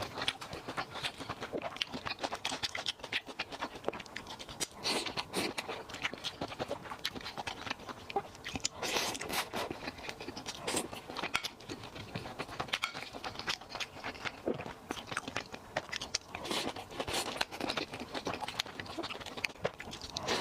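Close-miked chewing and crunching of food: a steady run of irregular crisp crackles and clicks.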